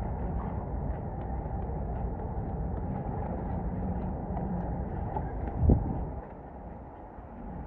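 Strong wind rumbling on the microphone, with a single thump about six seconds in, after which the rumble eases.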